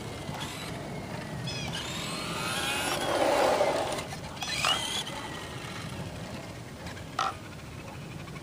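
ECX Torment 2WD electric RC short-course truck running, its motor whine rising and falling in pitch with the throttle, loudest about three seconds in as it passes close. Two short sharp sounds come a little under five seconds in and about seven seconds in.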